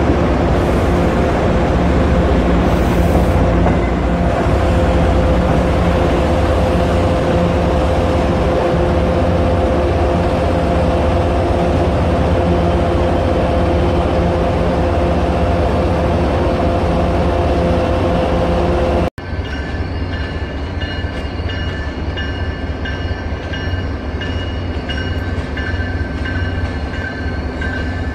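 MBTA commuter train running close by, a loud steady rumble with a humming engine tone. About two-thirds of the way through it cuts off abruptly, and a train is then heard moving along the tracks, with a thin steady high squeal of the wheels.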